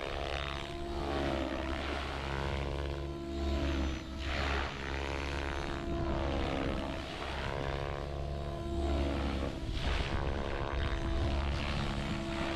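Electric RC 3D helicopter flying a Mobius figure of eight, its rotor and motor pitch swooping down and back up every couple of seconds as it passes by, inverted on one loop and upright on the other.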